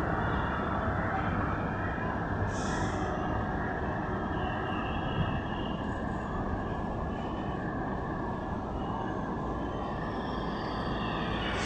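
Indian Railways diesel multiple unit (DMU) train running, a steady noise without a clear horn blast.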